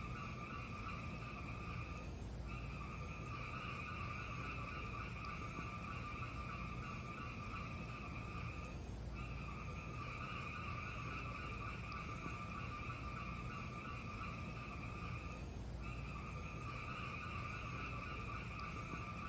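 Fire burning in a fireplace: a steady low rumble with a hiss that briefly dips about every six or seven seconds, and a few faint crackles.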